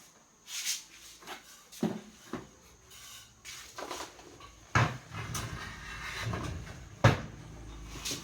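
Scattered knocks and clicks of objects being handled, with two sharper thumps about five and seven seconds in. From about five seconds in, a low steady hum runs underneath.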